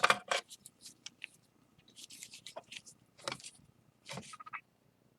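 Scattered clicks, taps and short scrapes of a spatula and broken ceramic plate pieces being handled while flour-and-lacquer paste is spread onto the break edges. A loud knock comes right at the start.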